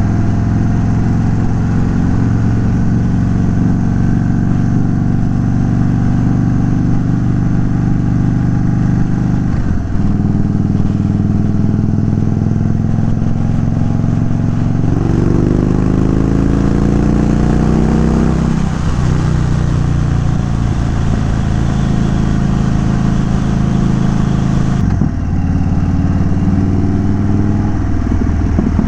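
A 2022 Indian Chief Dark Horse's Thunderstroke 116 V-twin runs under way through an unbaffled Dean Speed Rampage exhaust. It holds a steady note with a brief break about ten seconds in. The pitch rises as the bike accelerates from about fifteen seconds, drops suddenly at an upshift near nineteen seconds, and breaks again briefly near twenty-five seconds.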